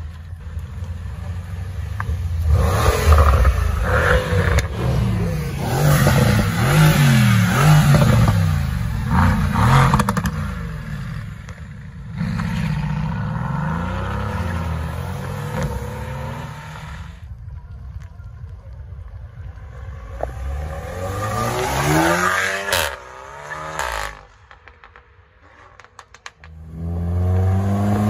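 A string of performance cars pulling away with hard revving. First a Mercedes-AMG C63 S coupé's twin-turbo V8 rises and falls through the revs, then a Mercedes-AMG GT's V8 accelerates off, with one sharp bang a few seconds before the end. At the very end a Peugeot 308 GTi revs as it pulls out.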